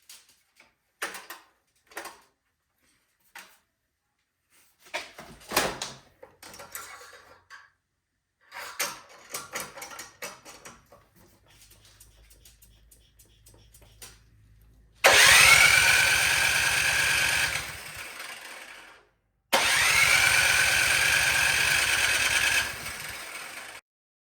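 Craftsman 22-inch snowblower's small engine heard in two bursts of about four seconds each, each starting abruptly with a rising whine over a fast steady beat, the first dropping in level partway through. Before them, scattered clicks and knocks.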